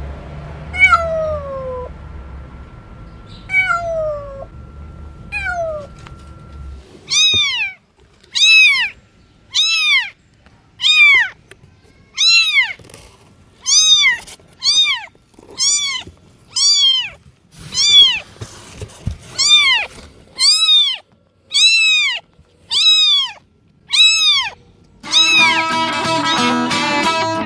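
Cat meowing: three long, falling meows, then a run of short, high meows at about one a second. Guitar music comes in near the end.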